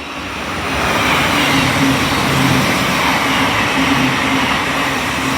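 Thameslink Class 700 electric multiple unit passing close by: a loud rush of wheels on rail that builds about a second in and then holds steady, with a low hum underneath.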